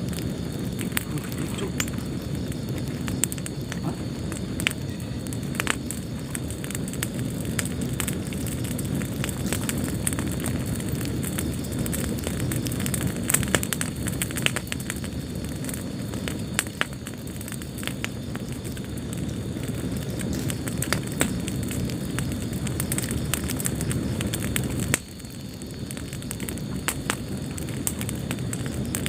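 Wood fire burning in a fireplace: a steady low rumble of flames with frequent sharp crackles and pops. About 25 seconds in the level drops abruptly, then builds back.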